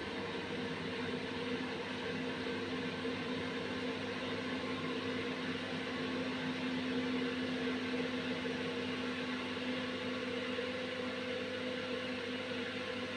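Airflow window exhaust fan running steadily: an even rush of air over a steady motor hum.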